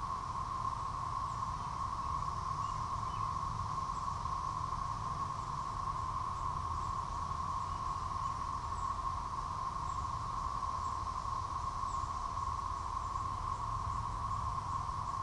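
Chorus of Brood XXIII Magicicada tredecim periodical cicadas, a steady, unbroken drone pitched near 1 kHz.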